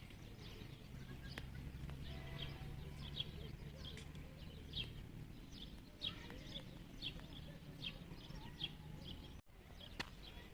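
Small birds chirping in short, irregular calls over a low steady hum.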